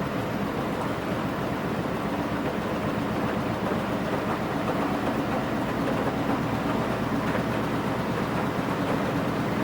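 Washing machine running mid-cycle: a steady hum of the motor and turning drum.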